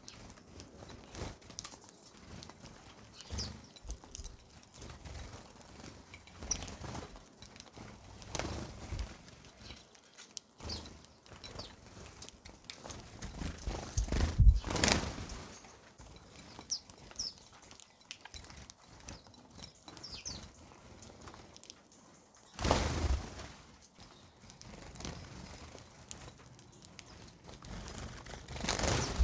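Birds feeding: scattered pecking taps and clicks with a few short high chirps, and a few louder rushes of noise, one about halfway through and one about three quarters of the way in.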